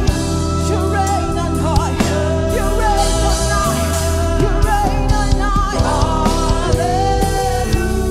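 Live worship music: a band with drums, bass and keyboard chords playing steadily while voices sing wavering lines over it.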